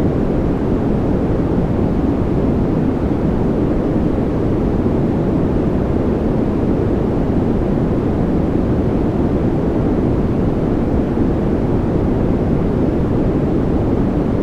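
Steady, unchanging synthetic noise for sleep, weighted toward the low end so it is a deep, even rush rather than a bright hiss.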